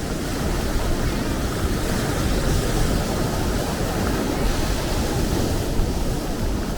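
Sea surf washing continuously, a steady dense rush of breaking water.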